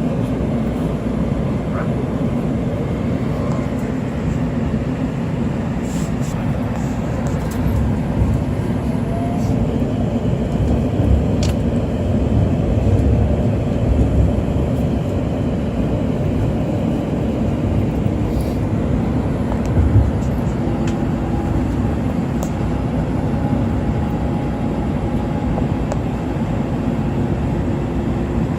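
Light-rail train running, heard from inside the car: a steady low rumble with scattered short clicks and knocks, and a faint steady tone joining in about two thirds of the way through.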